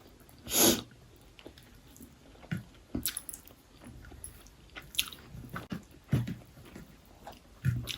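Chewing and mouth sounds of someone eating chicken biryani: small wet clicks and soft smacks scattered through. A short breathy whoosh about half a second in is the loudest sound.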